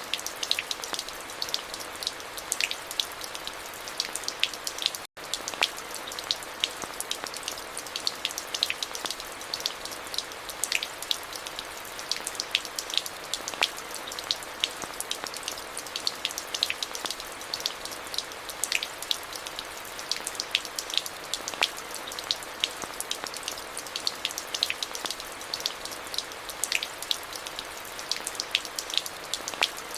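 Steady rain falling, with many separate drops tapping close by over a continuous hiss. The sound cuts out for a split second about five seconds in.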